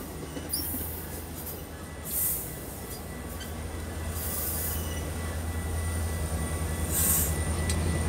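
Metra bilevel commuter train cars rolling past at close range, a low rumble that grows steadily louder. Short high hissing bursts come through about every two and a half seconds.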